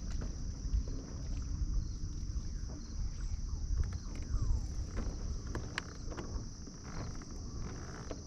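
Kayak on a lake: an uneven low rush of water and wind against the hull and microphone, with a steady high insect buzz and a few faint clicks over it.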